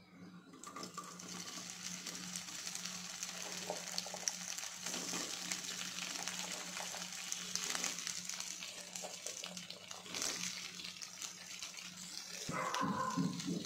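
Chopped okra sizzling in hot oil in a nonstick wok, a steady frying hiss that comes up about half a second in. Near the end a louder, irregular sound joins in.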